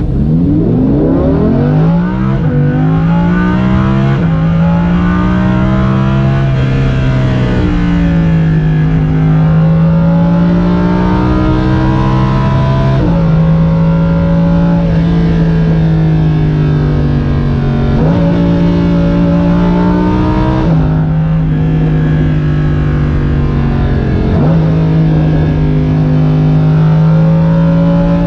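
Lamborghini Huracan LP610-4's naturally aspirated V10 driving under way, its pitch climbing and then dropping suddenly at each gear change, about seven times. It starts with a steep rise.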